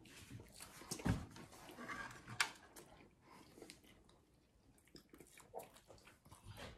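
Faint chewing of food, with a few soft knocks and clicks as a plate is picked up and handled; the loudest is a thump about a second in.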